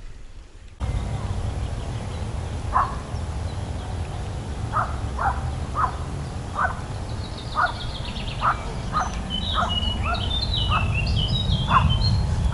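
Wild birds calling: one bird gives a short call over and over, roughly once a second, while from about halfway through a second bird adds a quick, high twittering song. A steady low rumble runs underneath.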